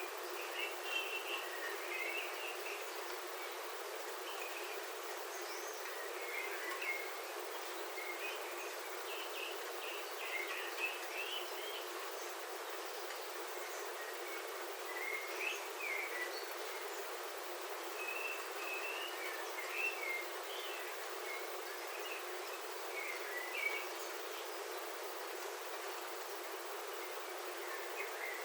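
Steady hiss of rain on a roof heard from inside, with birds chirping outside in short calls scattered throughout.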